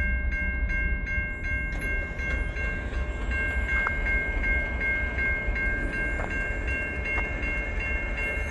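Railway crossing warning bells ringing steadily at about three strokes a second, over a low steady rumble.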